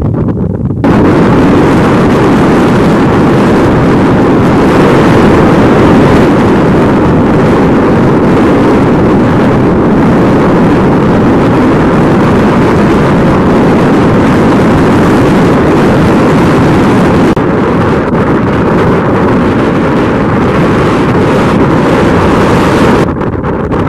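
Strong wind buffeting the microphone in a loud, steady roar. It comes in suddenly about a second in and falls away near the end, with a faint steady hum underneath.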